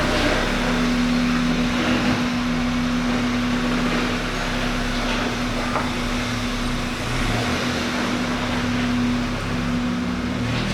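A 2007 Honda Fit 1.5 VTEC driving, heard from inside the car: steady engine and road noise with a few light knocks. The car was brought in for clunking from the suspension over bumps, which the mechanic believes comes from worn front stabilizer links.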